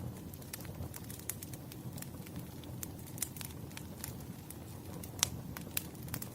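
Wood fire burning, logs crackling with irregular sharp pops over a low steady rumble, one louder pop a little past five seconds in.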